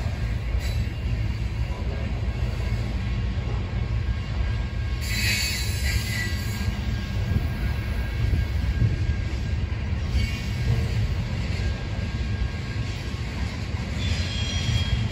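A train rolling past with a steady heavy rumble. Brief high-pitched metallic squeals come about five seconds in and again near the end.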